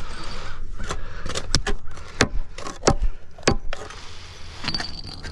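A hammer driving a nail into wooden concrete form boards: about five sharp strikes, unevenly spaced, over a low steady rumble.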